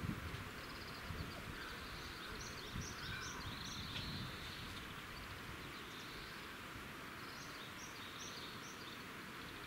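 Outdoor ambience with small birds chirping in short repeated calls throughout, and a few dull low thuds in the first few seconds.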